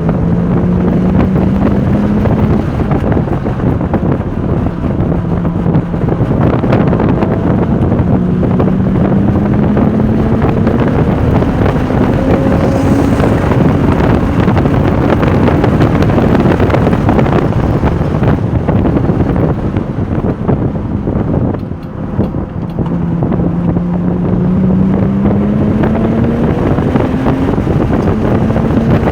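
Porsche 996 Turbo's twin-turbo flat-six engine at full throttle on track, its pitch climbing through each gear and dropping at the shifts, with heavy wind and road noise. About three-quarters of the way in, the engine note briefly dips as the driver lifts off, then it pulls up through the gears again.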